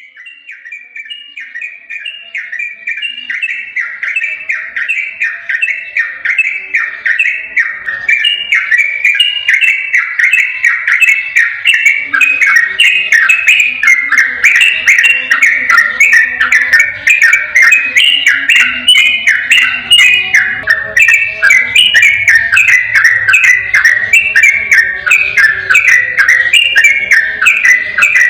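Yellow-vented bulbul singing a long, unbroken run of quick, bubbling phrases in the 'ropel' style, fading in over the first several seconds and then staying loud, with fainter lower sounds underneath from about halfway through.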